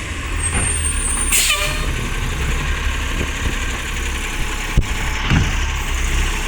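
Garbage truck's engine running at idle, with a short hiss of air and a falling whistle about a second and a half in, and a sharp click a little past the middle.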